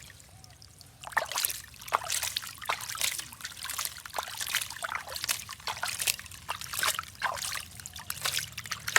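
Water trickling and splashing in quick, irregular spatters, starting about a second in after a brief lull.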